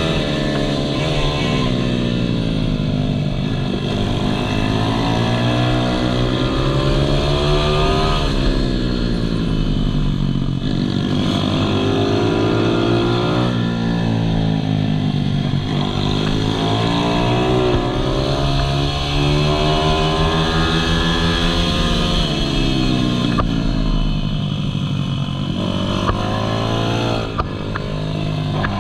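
Malcor Racer R 155cc pitbike's single-cylinder four-stroke engine at racing speed, its pitch climbing under hard acceleration and dropping back again and again as the throttle opens and closes.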